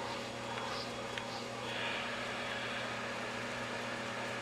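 Small pet grooming vacuum running steadily on its second power setting: a constant motor hum under a hiss of suction. The hiss brightens for about a second, two seconds in.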